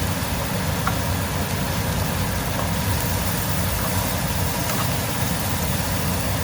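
Steady frying sizzle of julienned chicken breast and sliced onion and bell peppers in olive oil in two pans, just turned down to medium heat, over a steady low hum.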